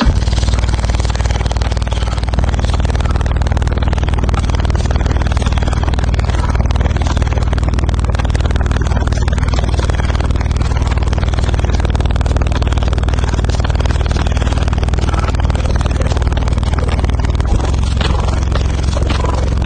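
A car driving: steady, loud engine and road rumble.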